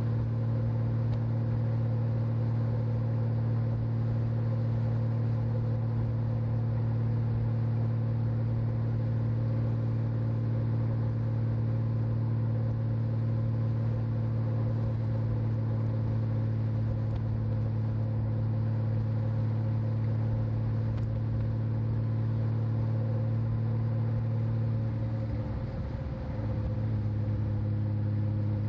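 Honda Valkyrie F6C's 1520 cc flat-six engine running steadily while the motorcycle cruises, heard through a microphone on the rider's back. Near the end the engine note dips briefly and settles a little lower as the throttle eases.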